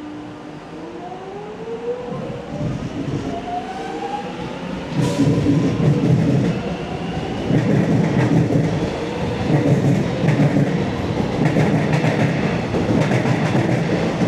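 Electric suburban train pulling out of an underground platform. Its motors whine, rising in pitch as it accelerates, then it gets louder about five seconds in with a rumbling clatter of wheels as it gathers speed past.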